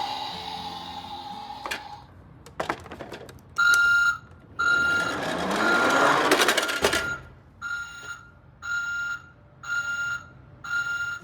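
Electronic beeps on a single pitch, repeating about once a second in the second half. They are preceded by a couple of beeps, a few clicks and a noisy rising whoosh around the middle.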